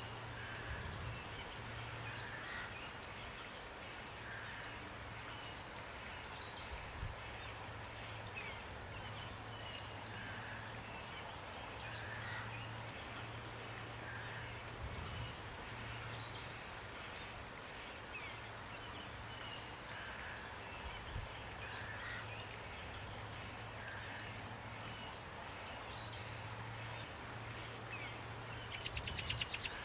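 Steady rain with birds singing over it: repeated quick high chirps and short falling notes, with softer lower calls every second or two and a fast trill near the end. A low hum comes and goes underneath.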